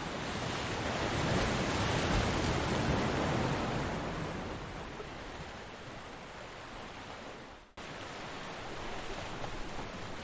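Ocean surf: the wash of the waves swells to a peak over the first few seconds, then eases off to a steady hiss. The sound cuts out for an instant about three-quarters of the way through, then resumes.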